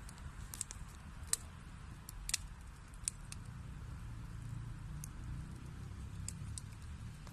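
Wood fire burning in a fireplace: a low steady rumble with sharp, irregular pops and crackles of burning logs, a few louder snaps in the first half.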